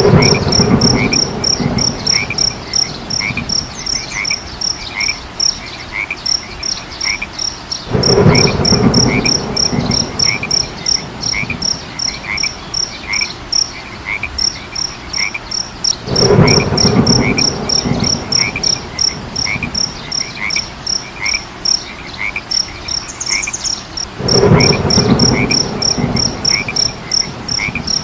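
A frog chorus: loud, pulsing croaking swells about every eight seconds, over steady high chirps about three a second and softer, lower chirps about twice a second.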